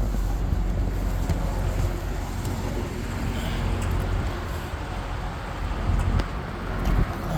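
2014 Chevrolet Corvette Stingray's 6.2-litre LT1 V8 idling steadily shortly after a cold start; it runs evenly, with no fault to be heard.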